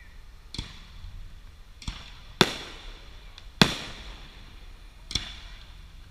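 Distant aerial firework shells bursting: five sharp booms a second or so apart, the two in the middle loudest, each trailing off in a short echo.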